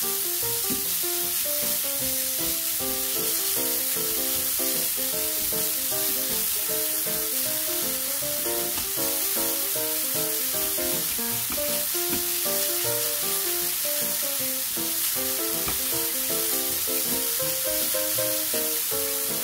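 Diced beef sizzling as it is stir-fried in a nonstick pan, heard over background music with a melody of short notes.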